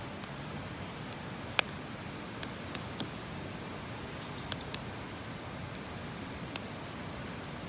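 Wood campfire crackling: a steady hiss with scattered sharp pops, the loudest about a second and a half in.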